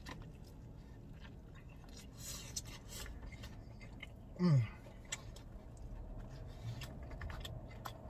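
A man chewing a mouthful of cheesesteak, with faint wet mouth clicks throughout. About four and a half seconds in comes a short hum ("mm") that falls in pitch.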